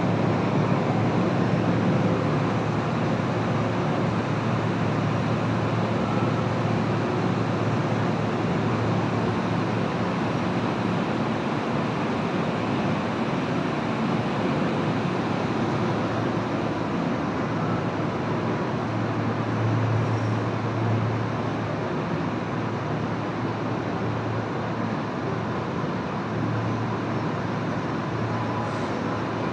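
Kintetsu limited express train running at speed, heard from inside the car as a steady rumble with a low hum that eases slightly about two-thirds of the way through.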